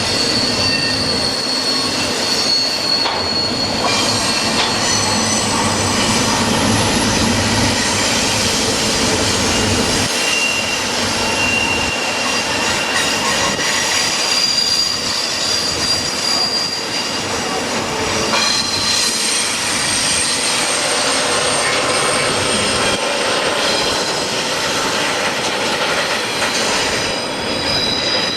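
Train running past with steel wheels squealing on the rails in thin, shifting high tones over a steady rolling rumble. The low rumble drops away about ten seconds in.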